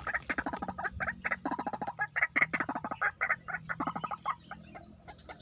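Rails calling: a rapid, dense run of short repeated calls, thinning out about four seconds in.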